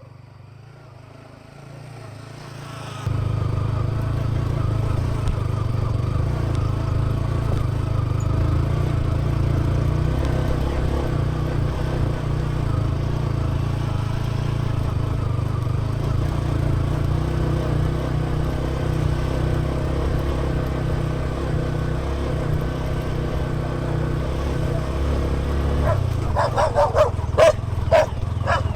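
Yamaha XSR 155 motorcycle's single-cylinder engine running steadily, a low rumble that comes in about three seconds in. Near the end a dog barks several times.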